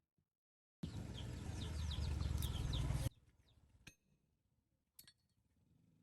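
Birds chirping over a loud low rumble that cuts in sharply and stops abruptly after about two seconds, followed by two sharp clicks.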